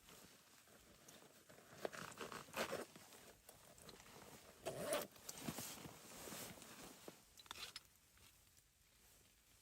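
Faint, irregular rustling and scraping with a few sharp clicks, loudest around two to three seconds in and again about five seconds in, dying away near the end.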